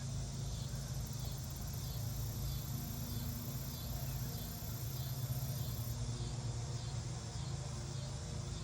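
Insects chirping in a steady, even rhythm over a low steady hum.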